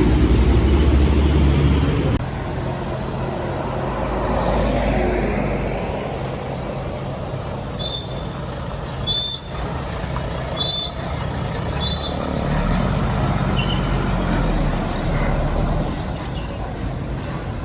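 Heavy truck traffic on a road: a big diesel truck engine running and passing, loudest in the first two seconds, then a steady traffic rumble. Four short high beeps come about halfway through.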